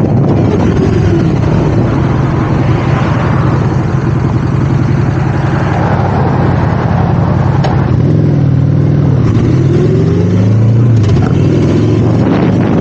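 Motorcycle engine running under way, with wind rushing over the microphone. About two-thirds of the way through, the engine note drops and then climbs again as the bike revs back up.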